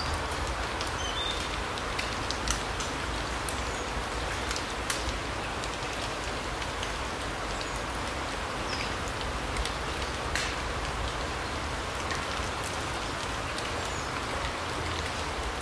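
Larch forest ambience: a steady hiss with scattered light ticks and a few faint high chirps.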